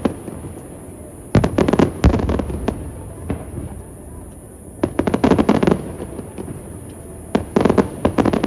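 Aerial fireworks bursting in three quick volleys of sharp cracks and bangs, each volley ringing out with echo before the next, about three seconds apart.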